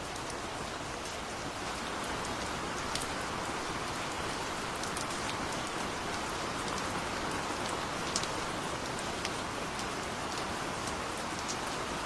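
Steady rain falling on a surface: an even hiss with scattered sharp ticks of individual drops.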